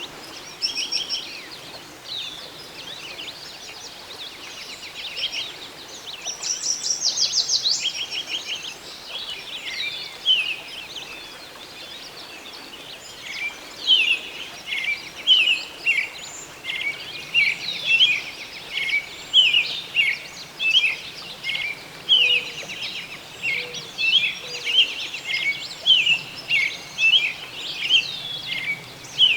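Songbirds singing over a faint steady background hiss: a fast trill about six seconds in, then a long run of short, sharp chirps repeated about once or twice a second from about fourteen seconds on.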